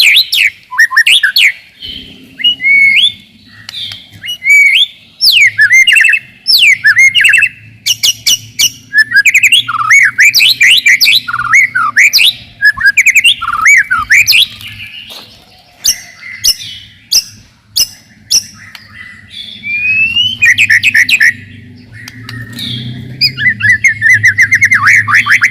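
White-rumped shama (murai batu) singing a fast, densely packed song of varied whistled phrases gliding up and down, broken by sharp clicking notes, over a faint steady low hum.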